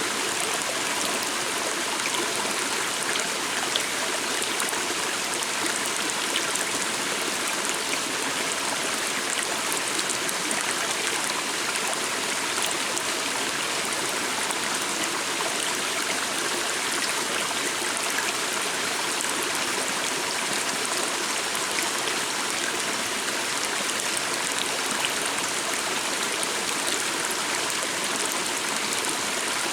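Small stream running steadily, a constant babbling and trickling of water over stones, with no change in level.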